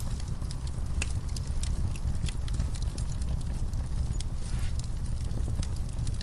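Wood fire burning in a fireplace: irregular sharp crackles and pops over a steady low rumble, with a brief hiss a little past halfway.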